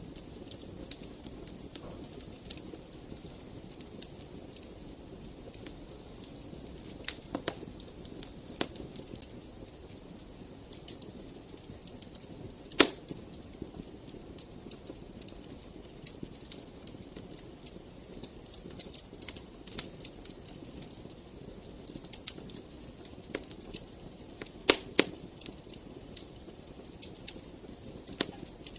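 Wood fire crackling in a fireplace: a steady low rush of flame with frequent sharp pops and snaps, two of them much louder, one near the middle and one near the end.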